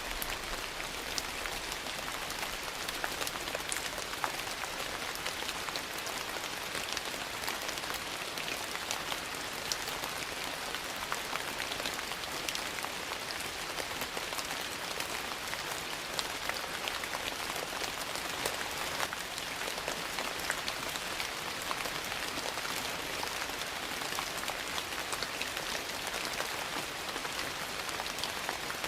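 Steady rain falling, mixed with the scattered sharp pops and crackles of a wood fire burning in a fireplace.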